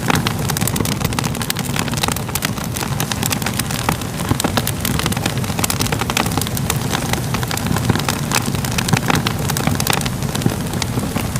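Crackling wood fire: a steady low rumble of burning with many sharp pops and crackles scattered throughout.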